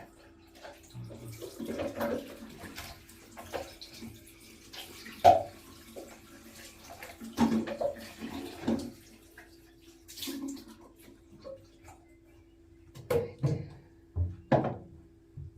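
Bath water splashing and sloshing in irregular bursts as a toddler plays in the tub, with the sharpest splash or knock about five seconds in. A steady low hum runs underneath.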